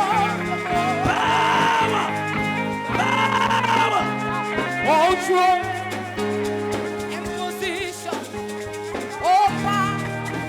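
Church worship music: held keyboard and guitar chords that change every few seconds, under a voice singing long wavering notes.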